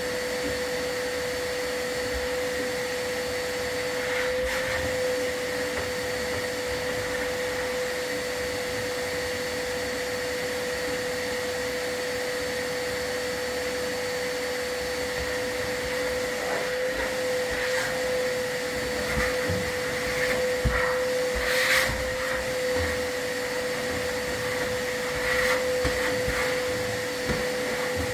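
Vacuum running steadily with a constant motor whine, the dust-containment vacuum used while sweeping a wood-burning fireplace, with a few brief scrapes and knocks in the second half.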